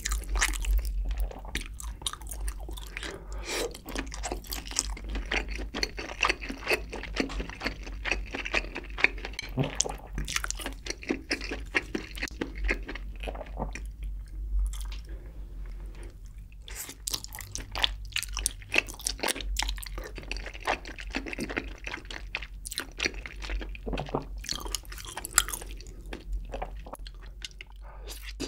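Close-miked chewing and biting of spicy braised chicken with Spam and sausage: a dense run of wet, squishy mouth sounds and short crunchy bites.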